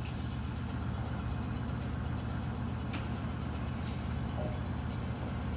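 A motor vehicle engine idling: a steady low rumble, with a couple of faint ticks about three and four seconds in.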